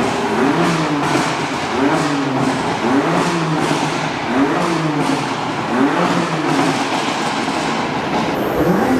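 A high-performance car engine revved again and again, its pitch rising and falling with each blip about every second and a half.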